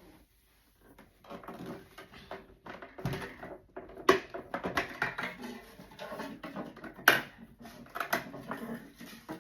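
Irregular clicks, knocks and rustling from hands working at a sewing machine, freeing a jam rather than sewing, with one sharper knock about seven seconds in.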